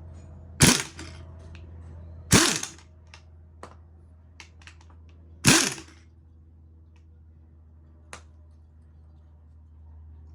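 Three short, sharp metallic taps, spaced about two and three seconds apart, each ringing briefly, with a few faint clicks of tools between them. The taps are given in small doses to loosen the front strut's top fastener while the coil spring sits compressed, checking whether the spring needs compressing further.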